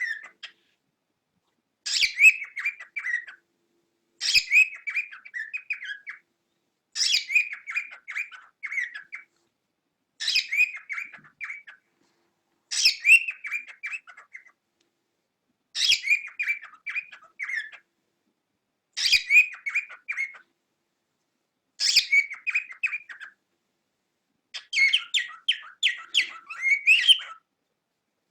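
Cockatiel chirping in short bursts of quick high chirps, each burst a second or two long, about nine times at roughly three-second intervals. The last burst, near the end, is denser and longer.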